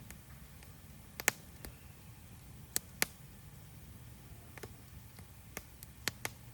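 Wood campfire crackling: a handful of sharp, irregular pops over a low, steady background hum.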